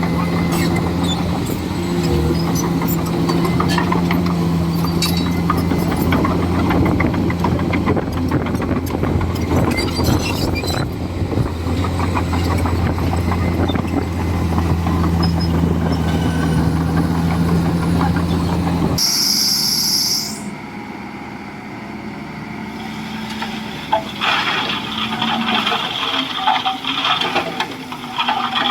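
Komatsu D41E bulldozer's diesel engine running steadily under load, with scattered clanks and knocks. About two-thirds in the engine sound stops abruptly, followed by a brief high squeal and then quieter, irregular rushing noise.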